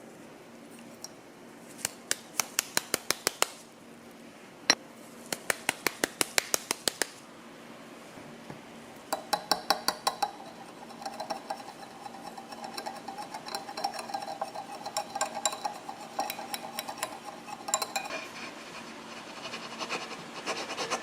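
A metal utensil beating against a mixing bowl: two bursts of rapid, evenly paced clinks, then a longer stretch of continuous clattering and scraping, as when whisking batter by hand.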